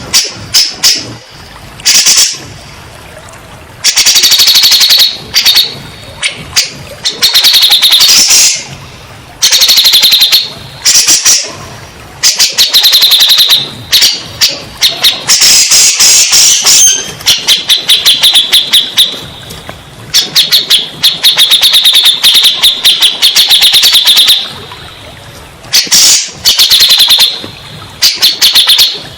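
Cucak jenggot (grey-cheeked bulbul) singing, with loud, rapid chattering phrases a second or two long, repeated with short pauses.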